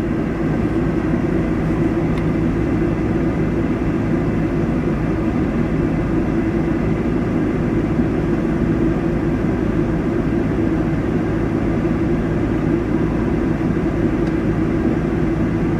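A vehicle engine running steadily, a constant drone that holds the same pitch with no revving.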